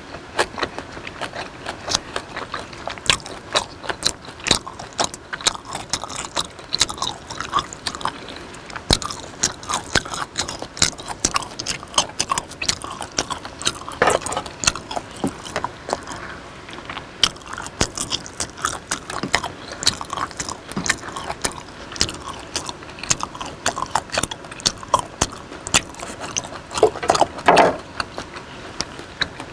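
Close-miked mouth sounds of chewing raw beef: a steady stream of wet clicks and smacks. There are two louder wet squelches, about halfway through and again near the end, while a slice is dipped into chili sauce.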